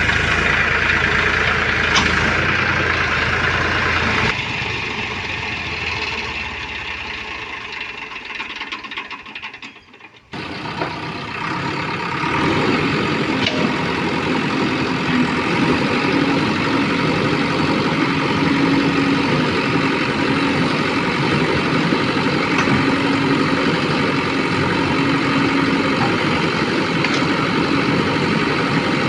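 Diesel engines of heavy farm and earthmoving machinery running. The sound dies away almost to nothing about ten seconds in, then comes back steady with a faint tone that comes and goes.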